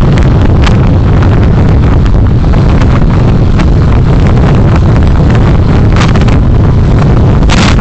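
Heavy, constant wind buffeting on the microphone of a moving vehicle's recorder, a loud low rumble with road noise. A few short hissy whooshes come through, the strongest near the end.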